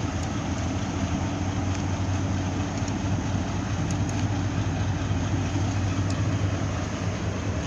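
Steady low engine rumble from a large ship's diesel engines running at a constant pace while docking, with an even hiss over it and a few faint ticks.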